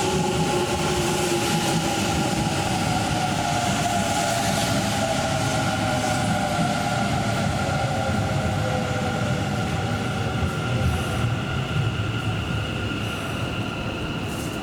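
Kintetsu electric commuter train slowing into the station: its motor whine falls steadily in pitch over rumbling wheels on the rails, with a faint steady squeal above.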